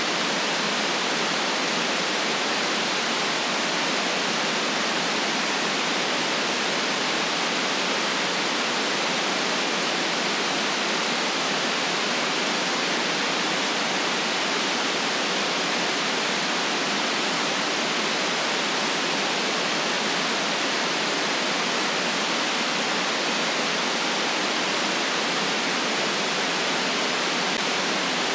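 Steady synthetic noise for relaxation, an even hiss with no changes, its energy between a low rumble and a high hiss.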